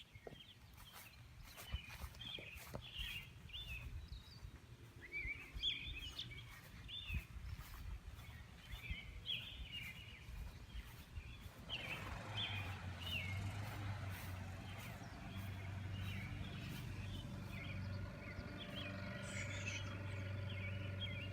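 Several birds singing and chirping outdoors after a storm, short trills and chirps overlapping. From about halfway a steady low hum joins in and continues to the end.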